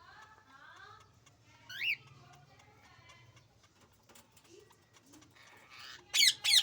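Newborn birds cheeping. A quick run of short rising peeps comes in the first second, then a loud high chirp about two seconds in, and a burst of loud, high chirps near the end.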